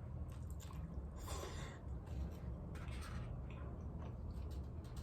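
Close-miked chewing and wet mouth sounds of someone eating birria tacos: scattered soft clicks, with one louder, longer burst a little over a second in, over a steady low hum.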